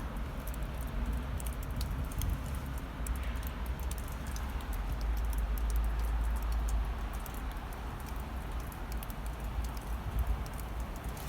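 Blizzard wind buffeting the microphone in a low, steady rumble that swells around the middle, with scattered small sharp ticks over it.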